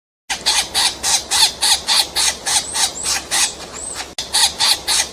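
Woodpecker calling: a fast series of short, sharp calls, about four a second, with a few thin whistled notes among them. The calls break off for an instant about four seconds in and then carry on.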